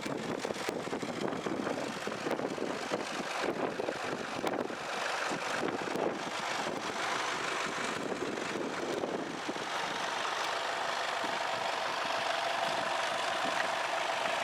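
An engine idling; about ten seconds in the sound settles into a steady, even hum.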